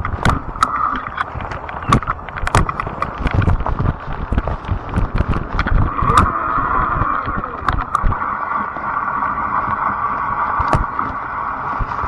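Fat-tire e-bike being ridden: a steady hum runs throughout, with frequent sharp clicks and knocks from the bike jolting over the ground, and an uneven low rumble.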